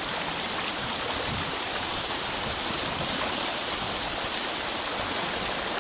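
Flowing water rushing steadily: an even, unbroken hiss, brightest in the highest range, with no other events standing out.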